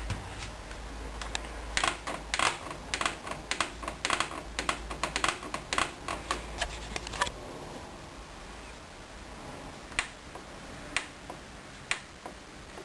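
Controls of a Hoover Dynamic Wash washing machine clicking as they are worked: a rapid run of clicks for about five seconds, then three single clicks about a second apart.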